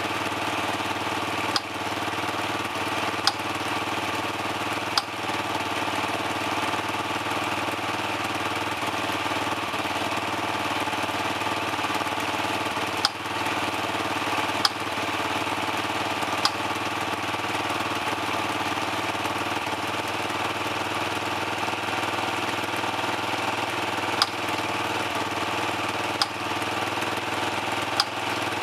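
Dirt bike engine idling steadily as it warms up, with a sharp crack every few seconds.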